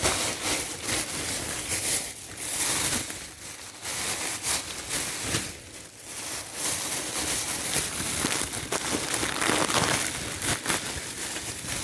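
Plastic food packaging being handled and opened, crinkling and rustling throughout.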